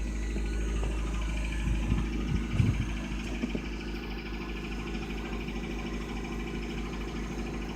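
1997 Honda Civic's D16Y7 1.6-litre four-cylinder engine idling steadily, warming up after a cold start, with a few low bumps about two seconds in.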